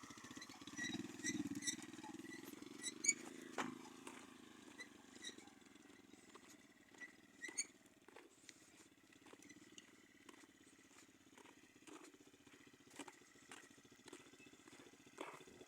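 Orion-100 moped's engine idling faintly, settling down after a rev in the first few seconds, with scattered small clicks and knocks throughout.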